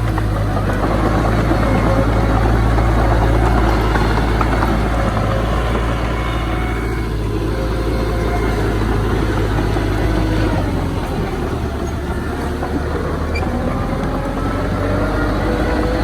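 Heavy diesel earthmoving machinery running steadily, with its engine note shifting and rising slowly in pitch near the end.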